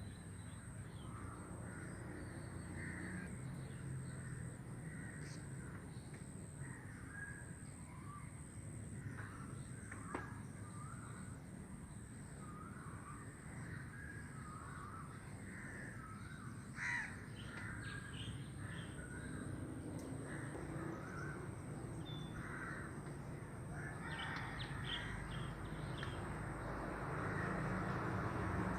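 Birds calling in the open, many short calls scattered throughout, over a thin steady high-pitched tone and a low rumble that grows louder near the end.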